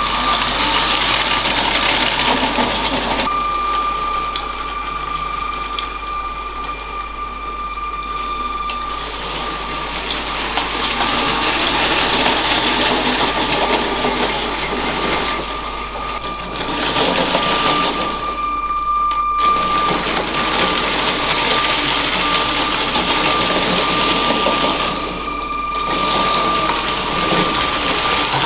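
LEGO train running on plastic track: the small electric train motor's steady whine over a constant rushing noise from the wheels and track. The sound thins out briefly three times, about two-thirds of the way in and near the end.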